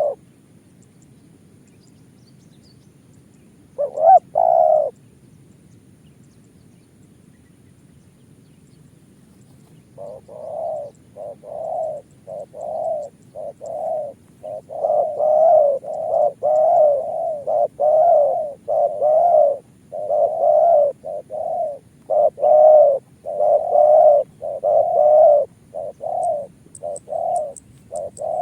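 Spotted dove cooing: one short call about four seconds in, then from about ten seconds on a long, unbroken run of close-spaced coos, nearly two a second.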